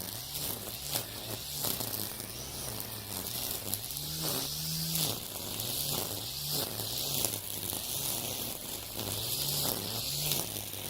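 Makita 40V cordless string trimmer running, its nylon line whipping through weeds with a steady hiss; the motor hum rises and falls in pitch, climbing higher for about a second around the middle.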